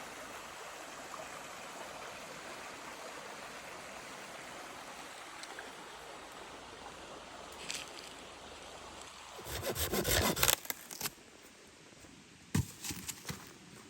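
Steady outdoor hiss, then about a second of rapid scraping strokes around ten seconds in, followed by a few sharp knocks.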